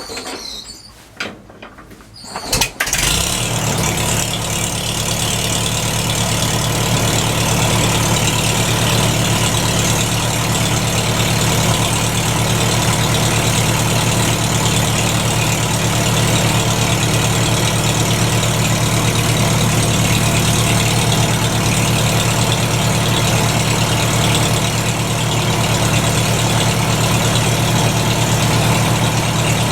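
McCormick Deering W-4 tractor's four-cylinder engine being hand-cranked, giving a few uneven bursts, then catching about three seconds in and running steadily. It is a cold spring start, the engine's first run after about a year and a half of standing.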